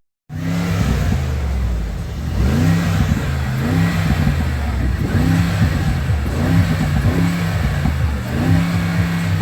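Car engine being revved repeatedly in quick blips, the pitch rising and falling about once a second over a steady idle.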